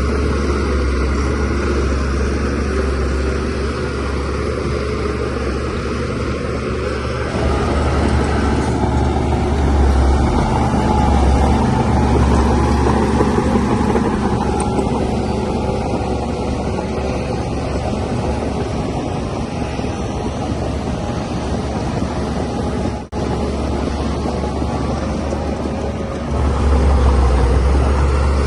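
DH17C3PRO bulldozer's diesel engine running steadily under load, with a deep low hum. It grows louder about seven seconds in and again near the end, with a momentary break about three-quarters of the way through.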